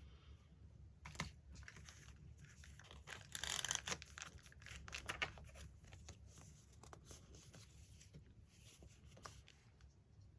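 Magazine paper being handled and torn, with a louder rustling tear about three and a half seconds in among softer crinkles and small taps.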